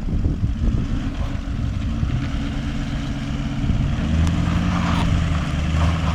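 Toyota Land Cruiser 200 series twin-turbo V8 diesel engine running steadily, its note getting louder and fuller from about four seconds in.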